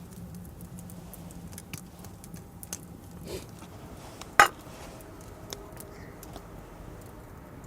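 Cookware being handled at a campfire: faint scattered clicks and crackles, and one sharp metallic clink about four seconds in that rings briefly.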